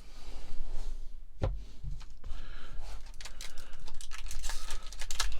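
Trading-card booster pack wrapper being torn open and crinkled by hand, with a sharp click about a second and a half in and a quick run of crackles and clicks in the second half.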